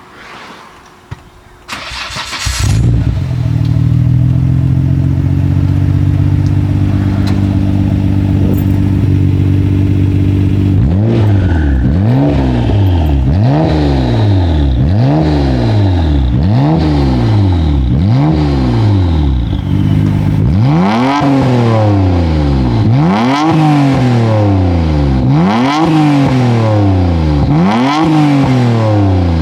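Nissan Skyline GT-R (BCNR33) twin-turbo RB26DETT straight-six through an A'PEXi R95 full-titanium exhaust: the engine starts about two seconds in and idles steadily. About a third of the way in it is blipped over and over, one quick rev every second and a half or so, and the later revs climb higher.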